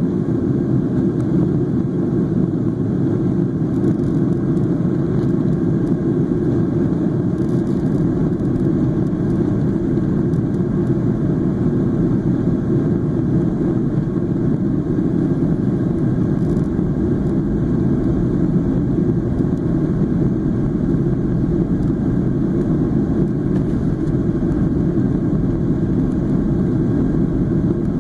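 Steady low roar inside the cabin of a Boeing 737-800 in flight: engine and airflow noise holding even throughout.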